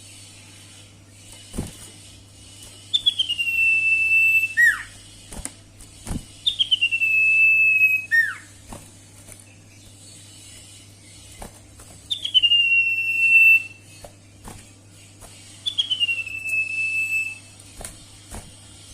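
Sirtu bird calls: four clear whistled notes, each sliding down briefly and then held for about a second and a half, two of the first ones followed by a quick steep falling note. There are scattered faint clicks and a steady low hum under the calls.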